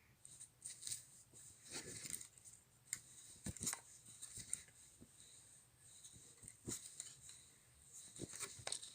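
Faint, scattered rustling and clicking, like things being handled at close range.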